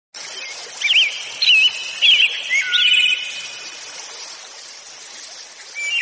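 Birds singing: a run of short, warbling whistled calls that swoop up and down in pitch, clustered in the first three seconds and starting again near the end, over a steady background hiss.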